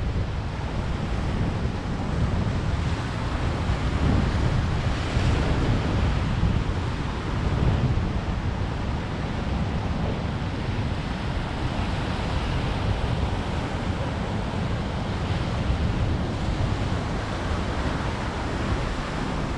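Ocean surf rushing and breaking, mixed with wind buffeting the microphone: a steady wash of noise with a heavy low rumble, swelling slightly a few seconds in.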